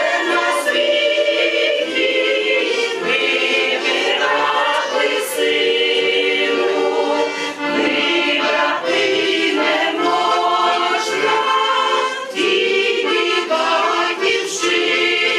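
A choir singing with instrumental backing, holding sustained chords.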